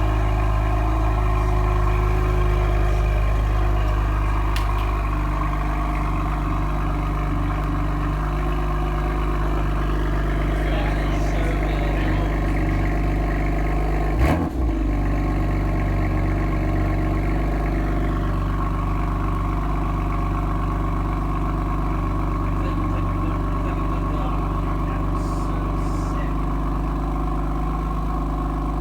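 BMW M4 GTS's twin-turbo inline-six idling steadily through its exhaust. A single sharp knock comes about halfway through.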